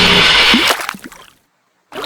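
Water splashing and sloshing: a loud rushing noise cuts off about two-thirds of a second in, dies away in a few splashes, and then the sound drops out to dead silence.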